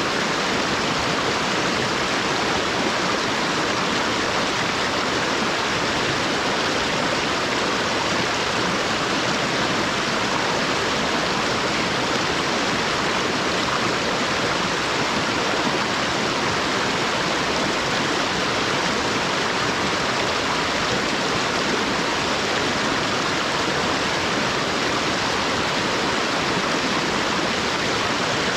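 Mountain stream rushing over rocks, a steady even sound of flowing water.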